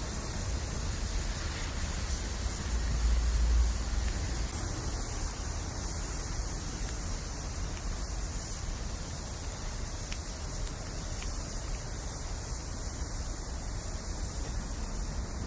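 Bamboo campfire burning with a steady hiss and a couple of faint pops, under low wind rumble on the microphone that swells about three seconds in.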